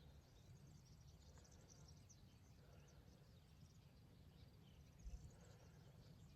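Near silence: faint outdoor ambience with faint high chirping and a low rumble of wind on the microphone.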